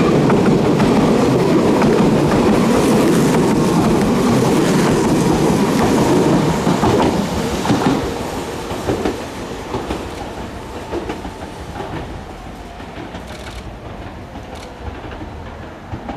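Meitetsu 2000 series μSKY electric multiple unit passing close by, a loud rumble with wheels clicking over rail joints. From about seven seconds in, the sound fades steadily as the train runs away into the distance.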